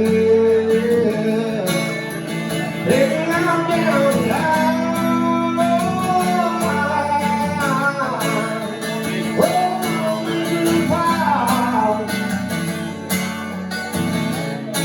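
Country song played on acoustic guitar, the chords ringing on steadily, with a melody line that slides between notes over them from about three seconds in to about twelve.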